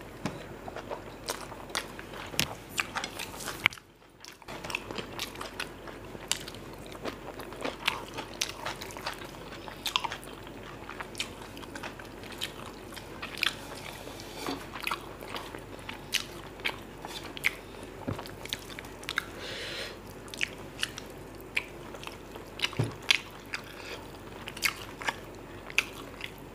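Close-miked eating sounds of mutton biryani and kadai mutton eaten by hand: wet chewing, lip smacks and many irregular sharp clicks and crunches. The sound drops out briefly about four seconds in.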